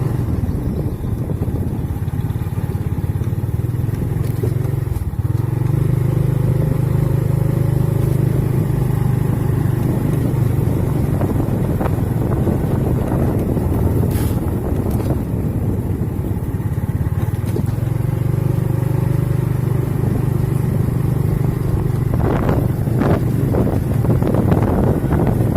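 An engine running steadily, with a constant low hum over a rushing noise, easing off slightly for a few seconds in the middle.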